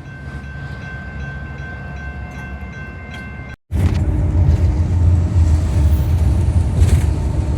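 Train passing with a steady rumble and several steady high tones above it, then an abrupt cut about three and a half seconds in to a much louder, closer diesel locomotive running with a deep rumble.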